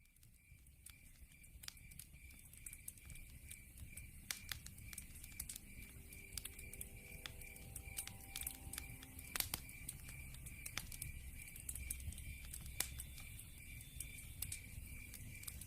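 Log fire crackling, with many sharp pops and snaps over a low rumble of burning, fading in over the first few seconds. Behind it runs a steady, evenly pulsed high chirping, the night sound laid under the fire.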